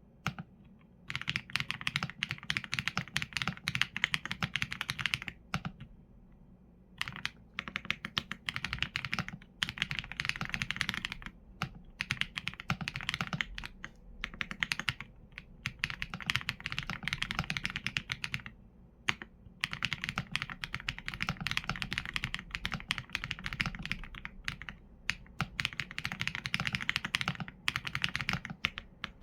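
Steady typing on a mechanical keyboard with Leobog Graywood V4 linear switches and PBT keycaps: fast runs of keystrokes broken by a few short pauses, the longest about five seconds in.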